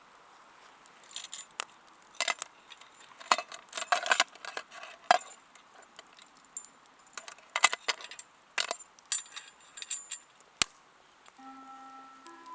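Light metallic clinks and jingling knocks from metal camp cookware and utensils being handled. There are a dozen or so separate strikes, some ringing briefly, with short gaps between them.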